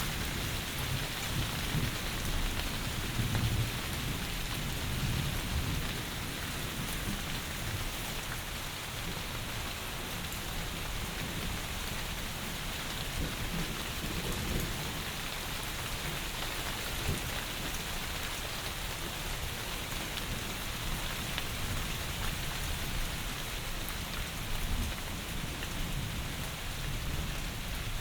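Heavy rain pouring steadily as a dense, even hiss, with low rumbles swelling under it, the strongest about three seconds in.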